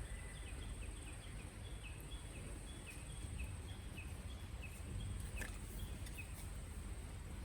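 A wild bird calling in a quick series of short, high, falling notes, about three a second, over faint outdoor background noise.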